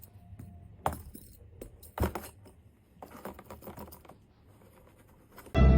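A few sharp clinks of small hard objects, with a patter of softer ticks and clatters after them; music starts just before the end.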